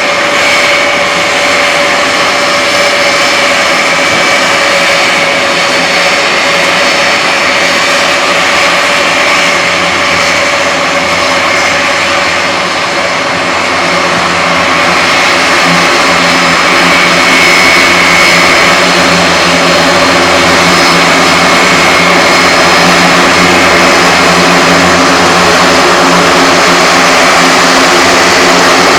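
Turboprop engines of a military transport aircraft running loud and steady, several propeller and engine tones held over a constant roar, growing a little louder about halfway through.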